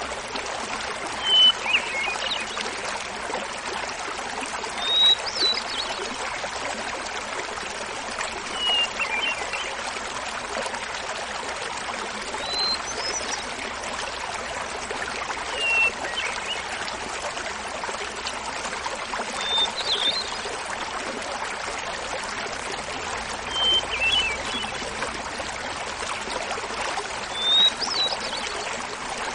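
Hermit thrush singing: about eight short, flute-like phrases, each a clear opening note followed by a quick fluttering run, repeated every three to four seconds at different pitches. Under them runs the steady rush of a small waterfall.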